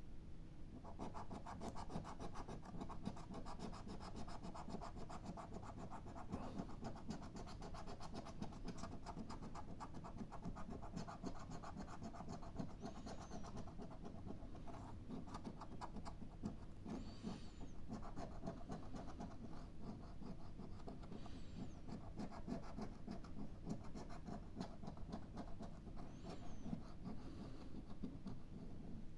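Scratching the coating off a scratch-off lottery ticket: a long run of rapid scraping strokes with a few brief pauses.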